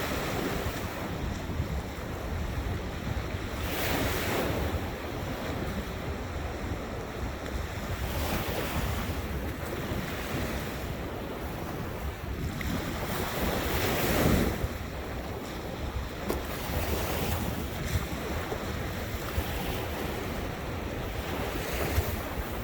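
Ocean waves breaking and washing in every few seconds, one louder wash a little past the middle, over a low rumble of wind buffeting the microphone.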